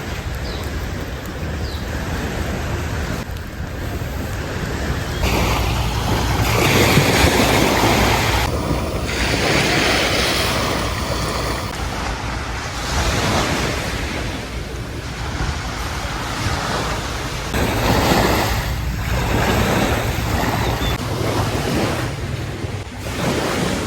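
Ocean waves breaking on a beach, the surf swelling and ebbing every few seconds, with wind buffeting the microphone.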